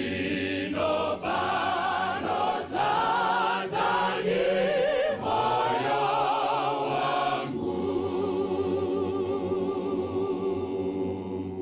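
A choir singing, several voices holding notes with a wavering vibrato; from about eight seconds in a final chord is held.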